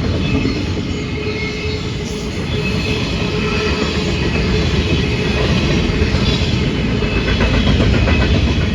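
Freight train passing close by, its cars rumbling steadily over the rails, with a thin steady squeal from the wheels.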